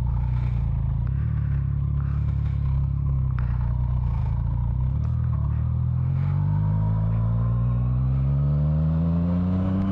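Motorcycle engine running at low revs, then climbing steadily in pitch over the last four seconds or so as it accelerates.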